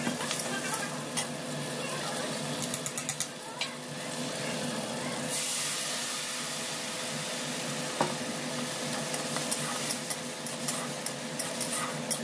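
Sliced onions and green chillies sizzling in hot oil in an iron kadai, with a metal spatula scraping and clicking against the pan. About five seconds in, a wet green masala paste goes into the oil: the sizzle suddenly flares louder with a burst of steam, then carries on as a steady, louder sizzle.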